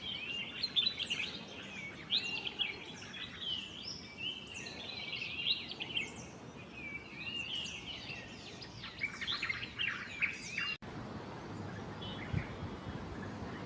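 Small songbirds chirping and singing in a dense run of quick, high notes. The song cuts off abruptly about three-quarters of the way through, leaving faint background noise with only an occasional note.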